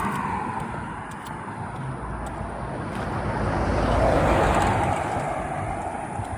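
Cars passing by on the road: one fades away just after the start, and another swells up and goes past about four seconds in, mostly tyre and road noise.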